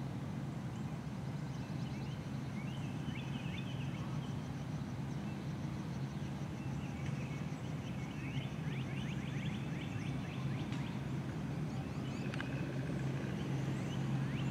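Birds calling in quick trilling runs of short notes, twice, over a steady low hum, with a faint rapid high ticking in the background.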